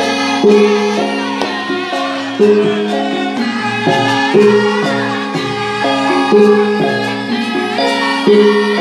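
Instrumental passage of a live Javanese devotional song: held melody notes over hand percussion, with a strong beat accent about every two seconds.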